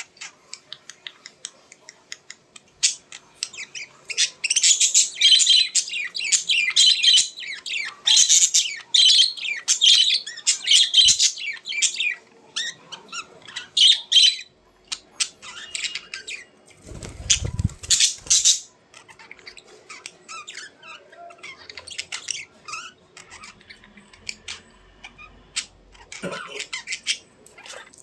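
Birds squawking and chirping: a dense run of rapid, high-pitched calls for about ten seconds, then scattered calls. A short low rumble comes about two-thirds of the way through.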